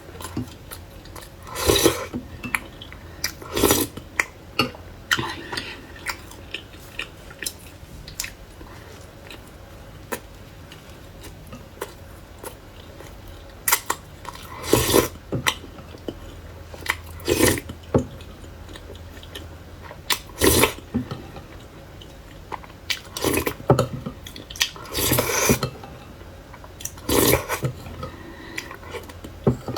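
Irregular crisp crunches and clinks of utensils against dishes, as crispy fried chicken is handled.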